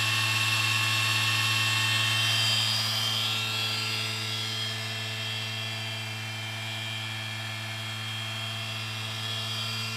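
Stepper motor of a digital 4th-axis dividing head running with a steady high-pitched whine over a low electrical hum; it eases off a little about three seconds in.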